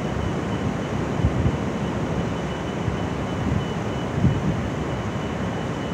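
Steady rumble of a city street, traffic and heavy machinery mixed together, with a faint high whine and a couple of low thuds.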